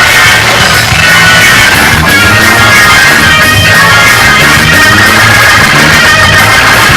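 Loud live gospel praise music from a church band, with guitar prominent over a driving bass, played continuously for congregational praise.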